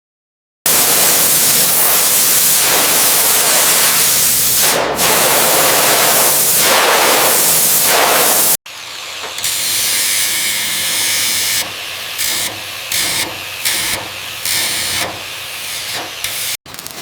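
Loud, steady high-pressure spray hiss lasting about eight seconds, ending in an abrupt cut. After the cut comes a quieter tool noise that starts and stops in short bursts.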